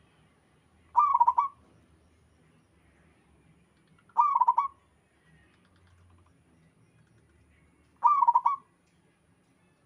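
Zebra dove (perkutut) cooing: three short, trilled coos a few seconds apart.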